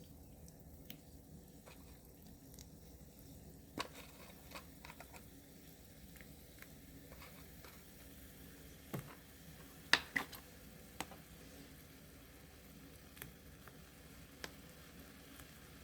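Faint fizzing of an Alka-Seltzer tablet dissolving in a container of water and oil, with a scattered handful of small clicks and pops, the loudest about ten seconds in.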